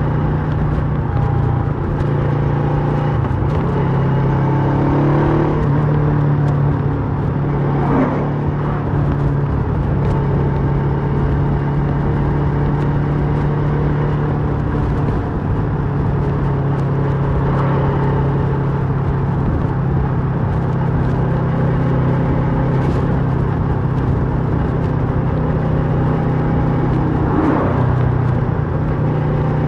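A 2008 Kawasaki Versys 650's parallel-twin engine running through a Mivv slip-on exhaust at a steady road speed. Its note shifts in pitch a few times with throttle and gear changes, and three brief swells come about 8, 18 and 27 seconds in.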